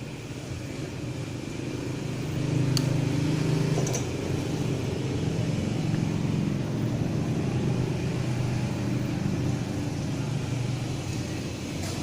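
Steady mechanical hum with a low drone, a little louder for a second or so about two and a half seconds in, with a couple of faint clicks.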